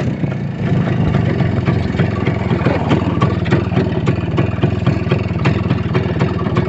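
A vehicle's engine running steadily, with frequent irregular clatter and knocks over it.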